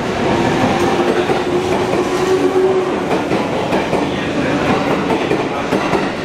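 E653-series electric limited express train running past along a station platform, wheels clicking over the rail joints with a steady electric motor hum; its last car goes by near the end.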